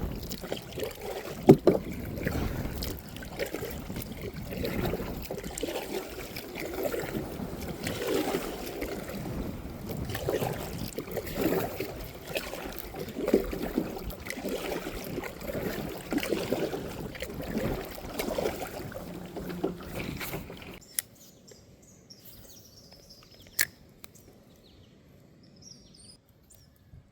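Kayak being paddled through shallow river water: repeated sloshing paddle strokes in an uneven rhythm. The sound cuts off about three quarters of the way in, leaving a quiet background with two sharp clicks.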